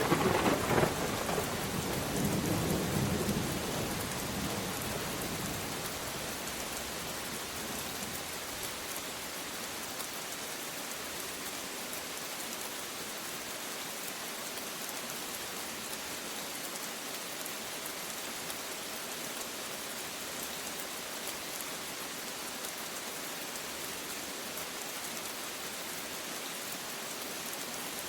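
Steady rain falling. A thunderclap cracks at the very start and rolls into a low rumble that dies away over the next several seconds.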